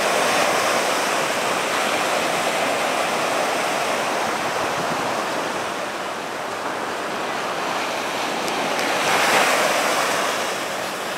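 Ocean surf breaking and washing up the beach, a steady rush that swells at the start and again about nine seconds in.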